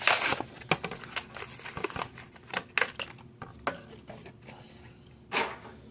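Handling of a Hot Wheels die-cast toy pickup truck: scattered small clicks and rustles, with a louder rustle at the start and another near the end.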